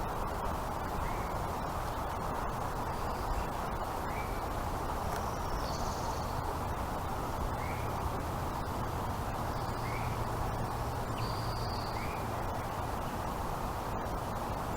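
Steady outdoor background noise with a faint, short bird call repeating every second or two, and a few higher chirps now and then.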